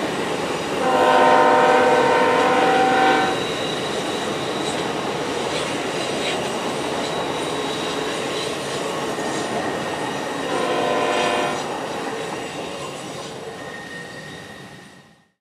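Union Pacific passenger train rolling around a curve with a steady rumble and a thin high wheel squeal, while a locomotive air horn sounds twice: a long blast about a second in and a shorter one about ten seconds later. The sound fades out near the end.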